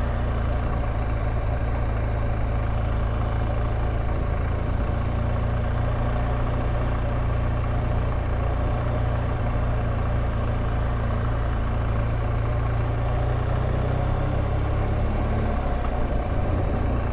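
BMW R1200GSA motorcycle's boxer-twin engine running at a steady pitch under a constant rush of wind and road noise. The engine note shifts slightly near the end.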